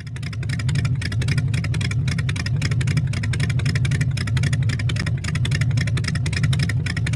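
Unmuffled demolition derby car engines running, a steady low drone with a rapid, even pulsing crackle of about ten beats a second.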